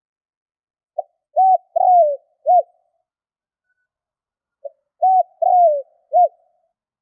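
Spotted dove (tekukur) cooing: two call phrases, about a second in and near the middle, each a short note and then three coos, the middle coo longer and falling in pitch.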